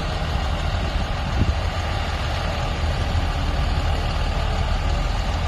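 International 4300's DT466 turbo diesel engine running steadily at idle, a low even rumble.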